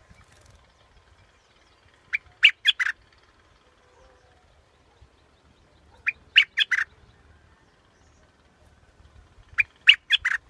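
Bulbul song: a short phrase of four or five quick notes, repeated three times about four seconds apart.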